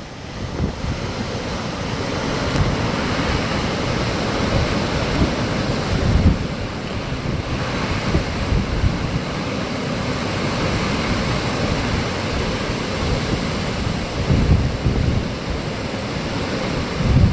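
Hurricane storm wind rushing steadily, with irregular gusts buffeting the microphone.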